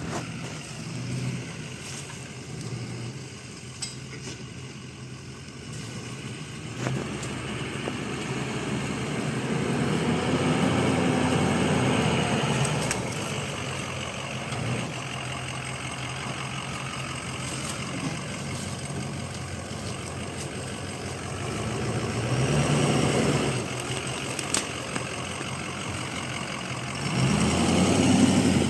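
A vehicle engine running, revving up and easing off three times: once for a few seconds about a third of the way in, briefly about three-quarters of the way in, and again near the end.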